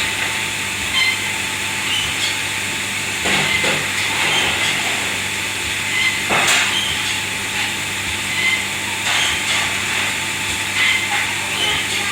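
Steady hiss and hum of running kitchen machinery, with a few sharp clatters about three, six and nine seconds in.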